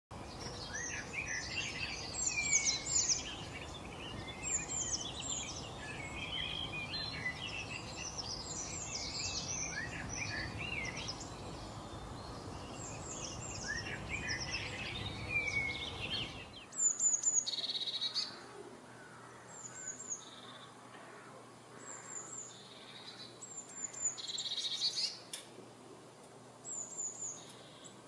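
Songbirds singing: a dense chorus of many overlapping songs and chirps over a steady background hiss. Partway through it changes abruptly to a quieter scene of short, high calls repeated every second or so, with a few louder phrases.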